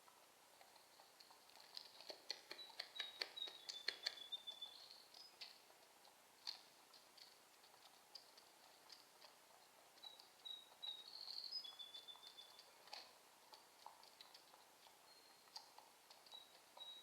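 Faint raindrops ticking in scattered clusters, with a small bird singing a short high phrase that steps down in pitch and repeats three times.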